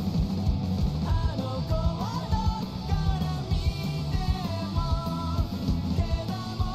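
Rock song with drums, guitar and a sung melody.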